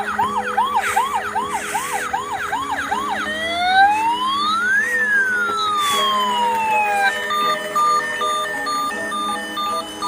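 Electronic police siren of a toy police car. It gives quick repeated rising yelps, about four a second, then one slow wail that rises and falls. About seven seconds in it changes to a run of short electronic beeps.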